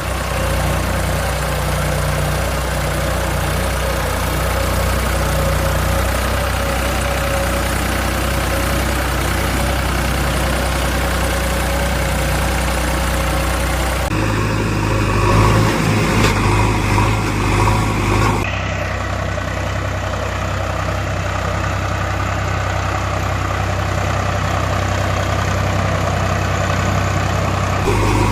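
Diesel engines of heavy machinery running steadily at low revs. The sound changes abruptly about halfway through and again a few seconds later.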